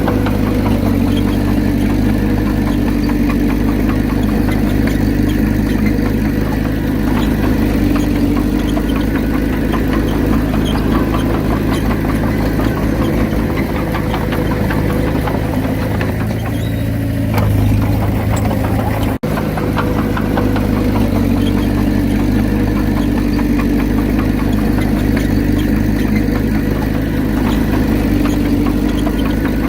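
Komatsu D31P bulldozer's diesel engine running steadily under working load. The note drops and deepens briefly about two-thirds of the way through, then picks back up.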